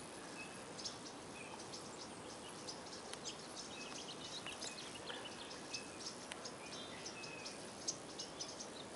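Faint outdoor ambience: a steady background hiss with many small, scattered bird chirps and ticks.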